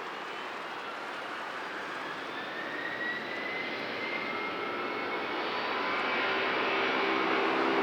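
Jet airliner engines growing steadily louder as the aircraft approaches, a rushing roar with a high whine that rises slightly in pitch.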